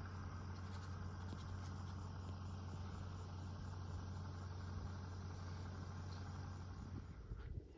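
Steady low hum with a faint even hiss over it, cutting off abruptly near the end.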